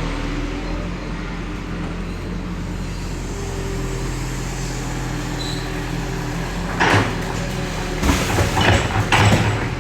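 Diesel engine of heavy earthmoving machinery running steadily, with loud metallic clanks and bangs once about seven seconds in and again in a cluster near the end.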